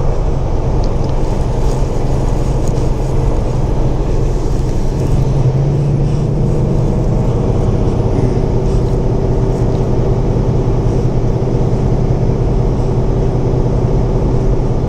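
Semi truck rolling down a grade, heard inside the cab: a steady loud drone of the diesel engine and road noise. The engine's pitch shifts about six seconds in, and a steadier whine joins from about eight seconds in.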